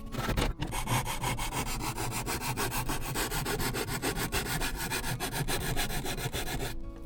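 Sanding wood by hand with sandpaper: a quick, steady run of rubbing strokes that stops shortly before the end.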